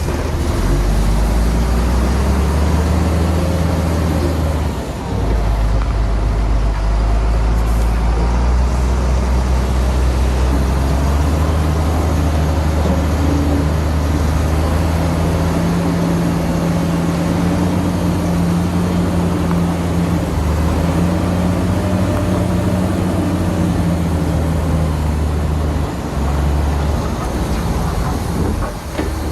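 Heavy diesel earthmoving machinery working: a deep engine note, steady, that shifts in pitch as the load changes, with a brief dip about five seconds in and another near the end.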